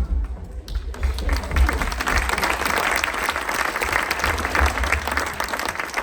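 Audience applauding, the clapping building up in the middle and thinning out near the end.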